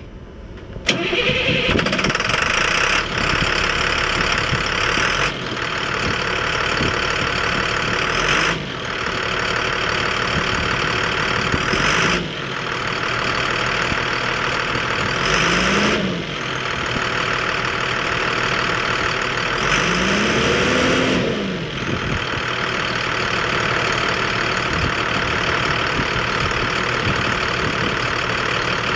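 2006 International 4400 truck's diesel engine starting about a second in and then idling, revved up and back down twice in the second half.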